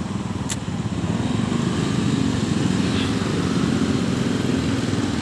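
Small motorcycle engine running close by, getting louder about a second in and then holding steady, with one short sharp click about half a second in.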